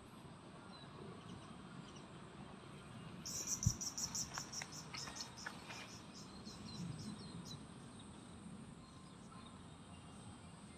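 A calling insect's high chirping pulses, starting about three seconds in, slowing and fading over the next few seconds. A soft thump comes near the start of the call, and short bird chirps sound now and then.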